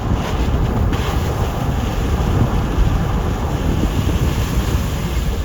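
Steady low rumble of wind buffeting the microphone, mixed with the road noise of a moving vehicle.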